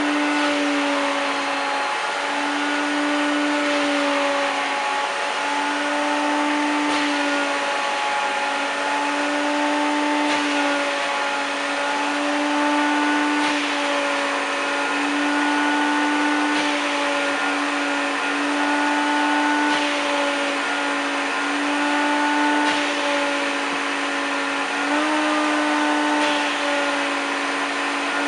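1993 Hoover Turbopower 2 1000 (U2814) vacuum cleaner running with a steady motor whine. Its pitch dips briefly every second or two and steps up slightly near the end.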